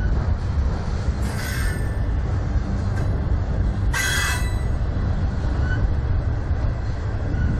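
Autorack freight cars rolling past at track side: a steady low rumble of wheels on rail, with two brief high metallic wheel squeals, about a second in and again about four seconds in.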